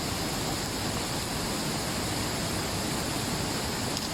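Steady rushing of river water and waterfall: an even, unbroken noise.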